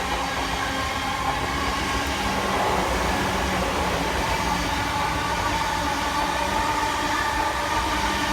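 Passenger train at a station platform: a steady low rumble with a whine of several held tones that drift slightly in pitch.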